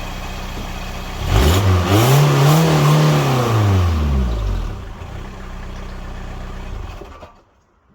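Mk3 Volkswagen Golf diesel engine idling, then revved once: the pitch climbs over about a second, holds, and sinks back to idle about four seconds in. It idles again until the sound cuts off abruptly near the end.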